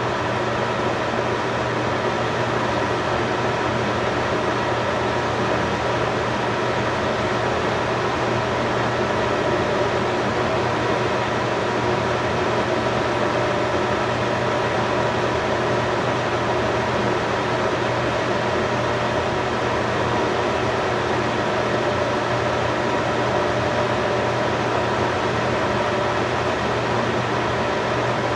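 A steady mechanical hum with an even hiss, holding unchanged throughout.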